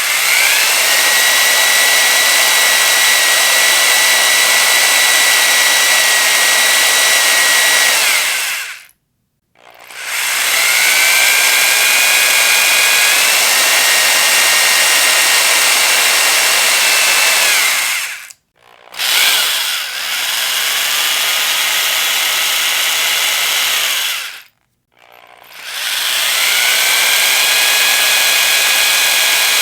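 Electric power drill run four times in bursts of several seconds, its motor whine rising as it spins up, then holding steady over a hiss before stopping abruptly. The pitch steps up once partway through the second run.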